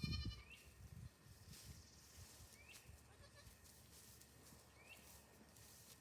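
A newborn goat kid's short, high-pitched bleat right at the start, followed by faint low rumbling and then near quiet.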